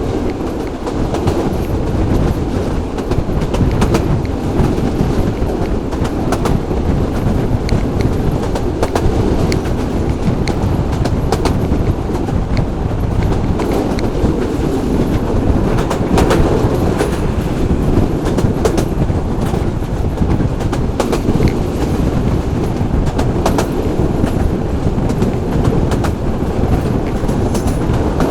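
Local passenger train running along the track: a steady heavy rumble with irregular sharp clicks and knocks from the wheels over the rails.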